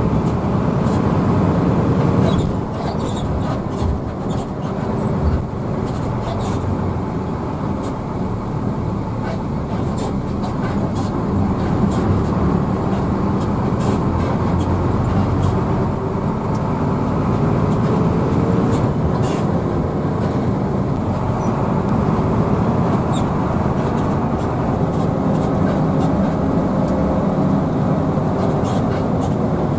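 Hino AK bus's diesel engine and road noise heard from inside the cabin on the move, a steady rumble whose engine note rises about halfway through, with light clicks and rattles.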